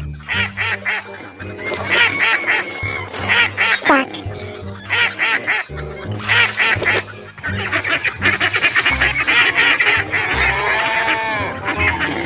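Ducks quacking over and over in quick, harsh calls. From about two-thirds of the way in, several birds call at once. Background music plays underneath.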